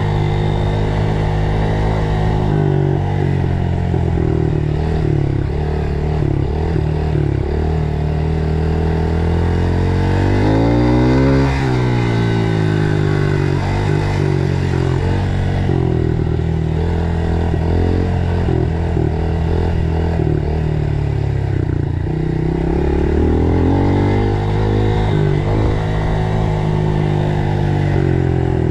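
Dirt bike engine running while ridden, its pitch stepping up and down with throttle and gear changes, with one sharp rev up and back down about eleven seconds in.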